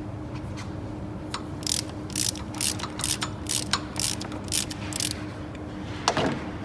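Ratchet wrench being worked in short strokes on an engine fastener, about two quick clicking runs a second for several seconds, then a short scrape near the end.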